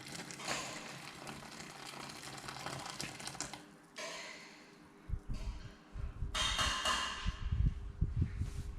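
Hot water hissing as it is poured into a bowl of dye powder, then uneven low knocks and rumbling handling noise, with a short burst of hiss near the end.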